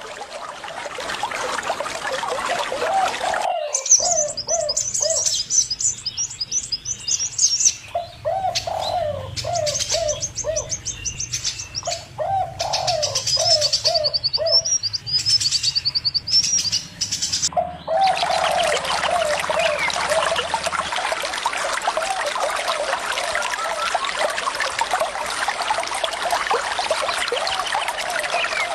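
Birds calling over running water: phrases of short, low, dove-like coos repeated throughout, with high rapid twittering from a small bird in the middle stretch. A steady rush of flowing water fills the first few seconds and comes back about eighteen seconds in.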